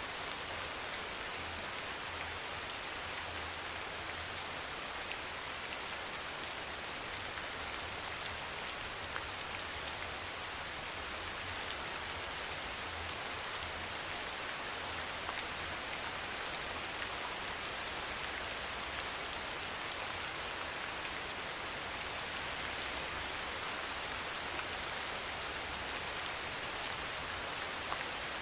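Soft rain falling steadily: an even hiss with a few faint, scattered ticks of single drops.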